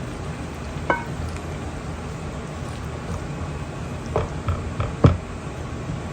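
Pasta in a cheese and milk sauce simmering in a pot with a steady hiss, and a utensil striking the pot: one ringing clink about a second in, then a quick run of four knocks around four to five seconds in.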